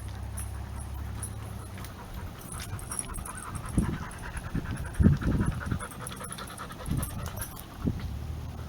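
A dog panting in quick short breaths, with a few low thumps near the middle.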